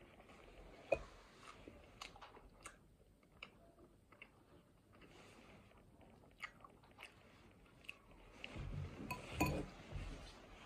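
Close-miked chewing of soft tortellini, with wet mouth clicks and smacks spaced irregularly. Near the end comes a louder burst of rustling and a few knocks as the bowl is set down and she moves.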